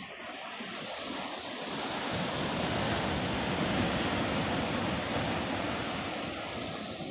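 Ocean surf: a wave breaking and rushing up the beach, swelling to its loudest about halfway through and then slowly easing off.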